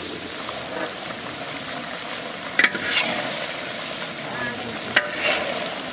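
Chunks of pork curry sizzling in a large kadai while a metal spatula stirs them. There is a steady frying hiss, with two sharp clinks of the spatula against the pan about two and a half seconds apart.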